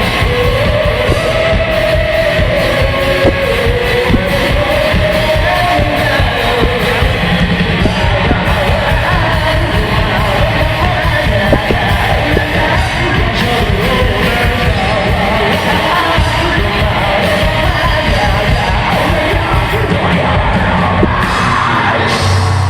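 Live rock band playing loudly: a singer's voice carried over drums and distorted guitars, with a few shouts from the crowd.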